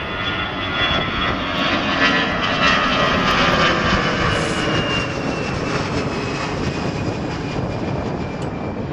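Delta Airbus A319 jet airliner departing: a steady engine roar with a high whine that slowly falls in pitch, loudest a few seconds in.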